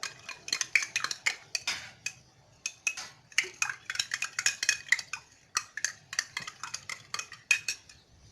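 A spoon stirring cornstarch into lemon juice in a glass, clinking and scraping against the sides in quick repeated strokes, with a brief pause about two seconds in.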